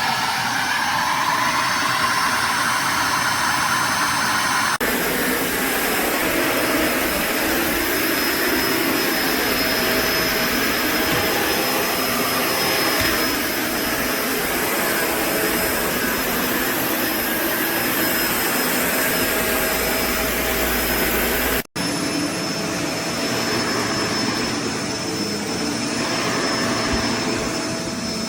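Kenmore BU4050 bagged upright vacuum cleaner running steadily: a loud, even motor rush with a thin high whine over it. The sound shifts abruptly about five seconds in and drops out for an instant about three-quarters of the way through.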